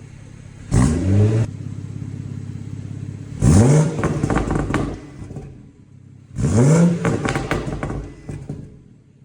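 BMW 340i's B58 turbocharged straight-six with a Scorpion aftermarket exhaust, idling and revved in three throttle blips: a short one about a second in, then two longer ones. Each of the longer revs is followed by a string of crackles as the revs drop back to idle.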